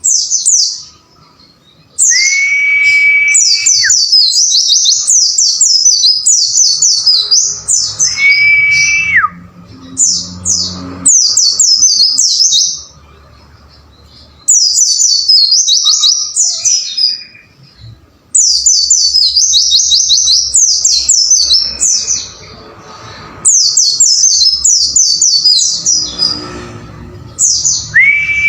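White-eye (pleci) song: fast strings of high, sweeping chirps in bouts of a few seconds, with short pauses between. Three times a long, steady whistled note sounds under the chirps and bends down at its end.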